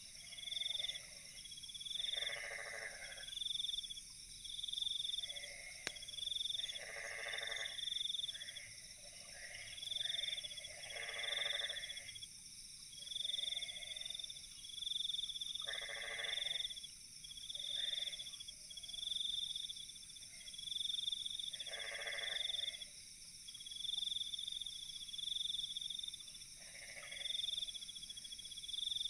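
Night chorus of frogs and insects: a steady high insect trill, a pulsing call about once a second, and louder frog croaks every few seconds.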